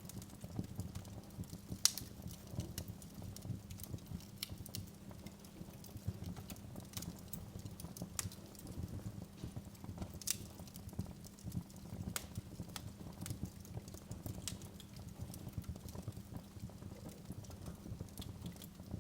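Wood fire in a fireplace crackling: irregular sharp pops and snaps over a low steady rumble of the flames, the loudest pop about two seconds in.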